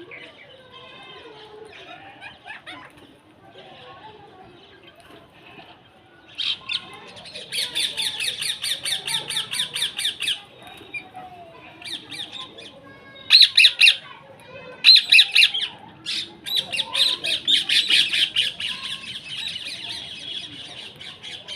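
Birds squawking: soft scattered calls at first, then long runs of rapid harsh calls repeated several times a second, broken by two short loud bursts about midway.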